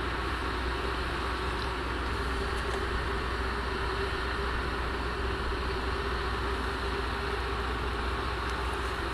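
Train 15D-114 running with a steady low rumble and even mechanical noise, with one constant mid-pitched tone.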